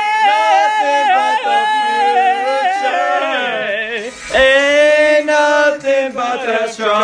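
Male vocals singing a pop song, holding a long wavering note, then after a short break about four seconds in, a second long note at a lower pitch.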